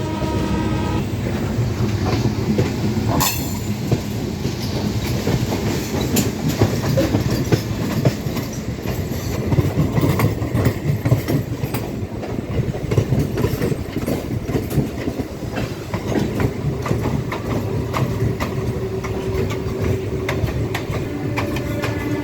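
Ride noise aboard a moving Indian Railways express passenger train: a steady rumble with the wheels clicking over rail joints, and one sharper crack about three seconds in.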